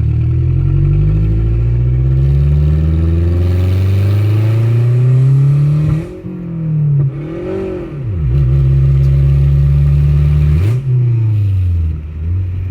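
Mazdaspeed6's turbocharged 2.3-litre four-cylinder running loud through an open downpipe, pulling hard with the pitch rising for about six seconds. The revs then fall sharply at a gear change, rise and fall briefly, hold steady, and drop again with another upshift near the end.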